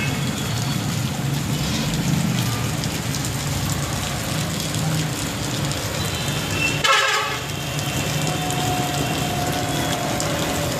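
Steady road traffic noise, vehicles running on a wet road, with a short, sharp sound about seven seconds in.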